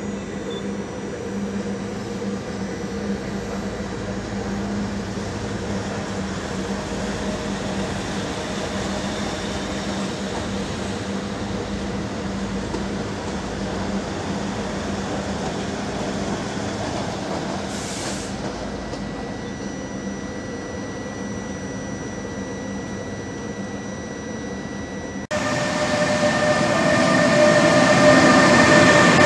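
A regional passenger train runs slowly through the station, a steady hum with a few level tones. About 25 seconds in, a sudden cut brings a louder, close freight train: an electric locomotive and covered wagons rolling by with wheel rumble and whining tones.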